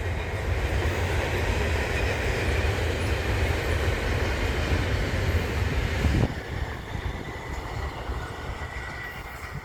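Intermodal freight train cars rolling by on the rails, a steady rumble and clatter with a faint wheel squeal. About six seconds in the noise drops off suddenly as the end of the train passes, then it fades away as the train recedes.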